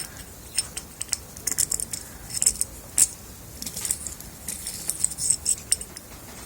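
Hand reamer working in the small holes of a steel meat mincer plate, giving irregular sharp metallic clicks and short scrapes as it clears out burrs.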